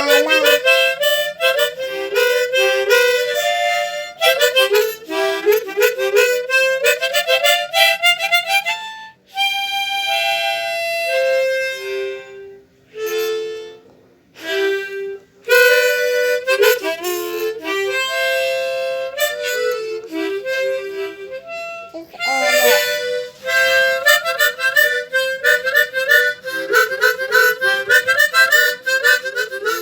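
Instrumental music: a harmonica playing a quick melody of short, repeated notes, with a few brief breaks in the middle.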